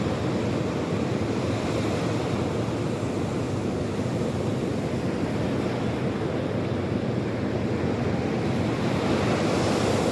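Sea surf washing continuously onto the shore, with a wave surging a little louder near the end, and wind on the microphone.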